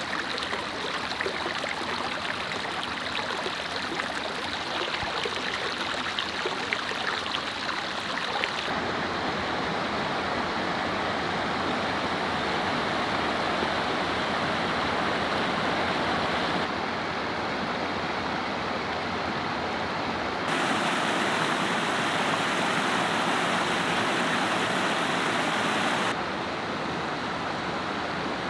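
Steady rush of a waterfall and creek, a constant noise that shifts abruptly in level and tone four times.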